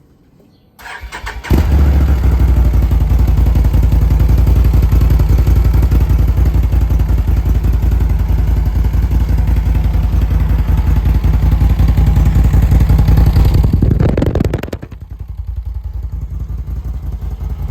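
Can-Am Outlander 1000 XMR's Rotax V-twin, on its stock exhaust, cranked by the electric starter and catching after about a second, then running loudly at idle. It gets noticeably quieter about fourteen seconds in and keeps running.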